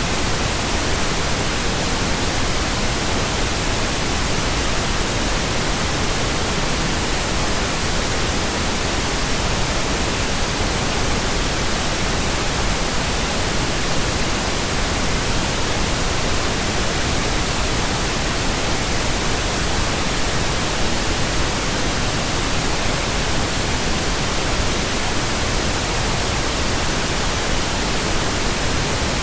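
Steady, unchanging pink noise: an even hiss covering low to high pitches, with no events or variation.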